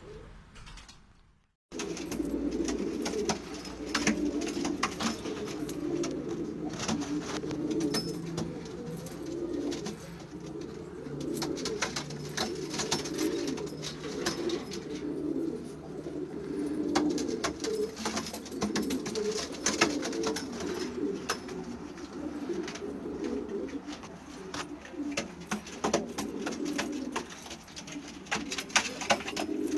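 Many domestic pigeons cooing together in a continuous overlapping chorus, starting suddenly about two seconds in, with scattered sharp clicks and taps throughout.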